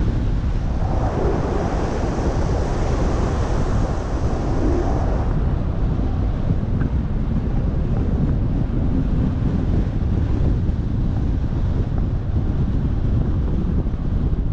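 Wind buffeting the microphone: a steady heavy rumble, with a brighter rushing swell in the first few seconds.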